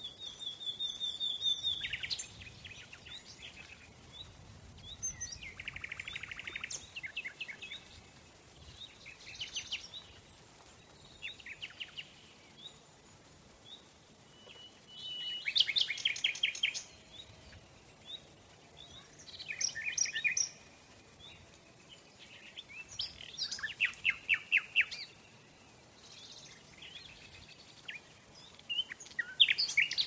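Wild birds singing in short phrases every few seconds, many of them fast trills of rapidly repeated high notes, over a faint steady background hiss.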